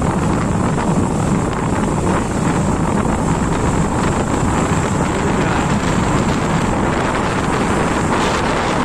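Wind buffeting the microphone over a motorcycle's engine and tyres while riding at a steady speed.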